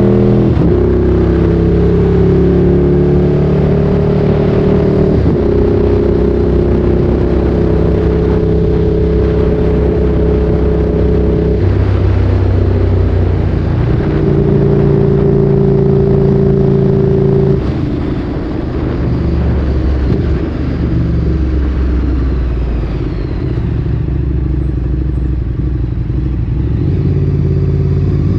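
Ducati Streetfighter 848's L-twin engine running through a Termignoni exhaust while riding, holding steady revs that step to new pitches several times as the rider shifts and changes throttle. About two-thirds of the way through the throttle closes and the exhaust note drops and turns quieter and rougher.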